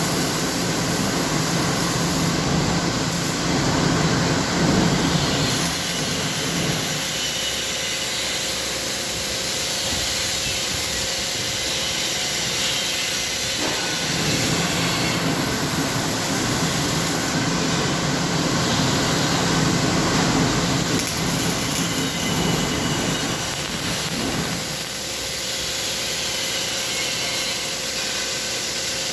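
Steady industrial noise in a muffler welding shop, a dense hiss with a faint constant tone. A heavier low hum comes in twice, each time for several seconds.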